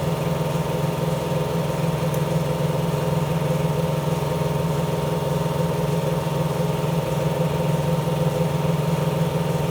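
A motor running steadily, giving an unbroken hum.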